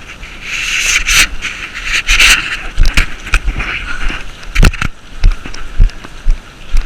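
Footsteps walking on a hard, gritty floor: scuffing and rustling at first, then from about three seconds in regular heavy footfalls, under two a second.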